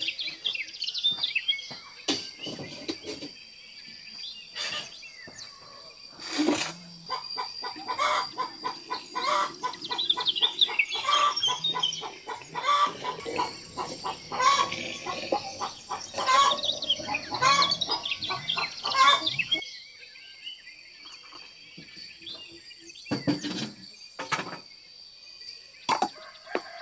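Birds chirping and calling over a steady high-pitched tone, with scattered sharp knocks and clicks. A busier stretch of rapid repeated sounds fills the middle, and it quiets down after about twenty seconds.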